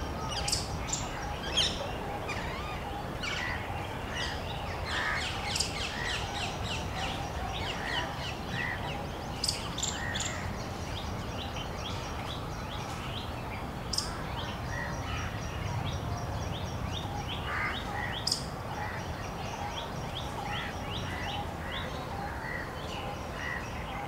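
Birds calling: many short, sharp chirps and calls, with a fast, even, high trill running for several seconds past the middle, over steady low background noise.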